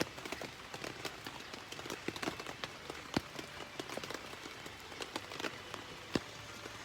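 Rain falling on a tent: scattered irregular drops tapping, some much louder than others, over a steady rain hiss.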